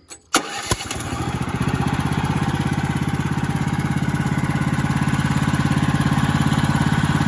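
Portable sawmill's gasoline engine starting about half a second in and settling into steady running, with a fast even firing pulse. The fuel is shut off so the engine can run the carburetor dry until it dies.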